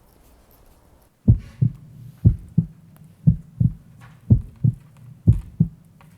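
Heartbeat sound effect: paired lub-dub thumps about once a second over a low hum, starting about a second in.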